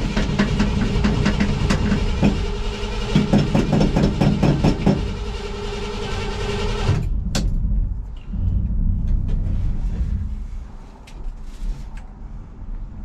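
1985 Ford F250 pickup engine running with rapid clicks and rattles, then cutting off abruptly about seven seconds in, leaving a low rumble. The truck has a failing starter solenoid and little cranking power.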